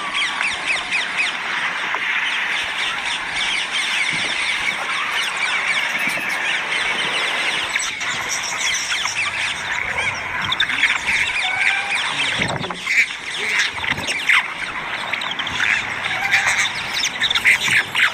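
A flock of green parrots squawking and screeching, many short calls overlapping in a continuous chorus, with some louder single calls in the second half.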